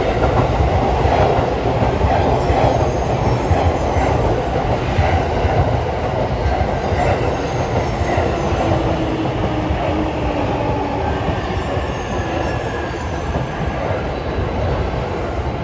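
Electric train running along the station platform: a steady rumble of wheels on rail with a thin, high wheel squeal in the middle, easing slightly toward the end.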